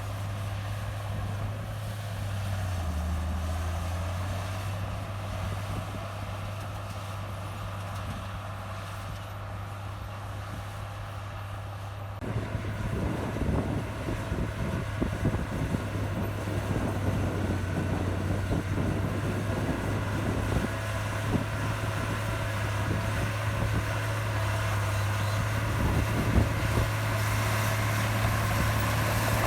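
Heavy diesel engine of earthmoving machinery running steadily, its pitch dipping briefly about three seconds in. From about twelve seconds in a rough, crackling rattle joins it and the sound grows somewhat louder.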